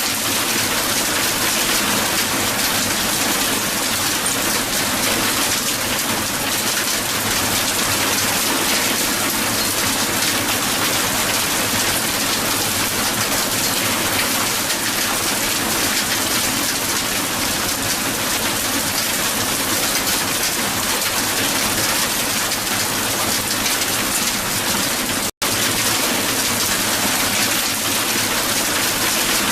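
Dense, steady hail falling on a hard surface, a thick patter of many small ticks. It cuts out for an instant near the end.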